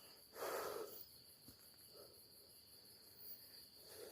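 Crickets and other night insects chirring steadily, with one brief soft noise about half a second in.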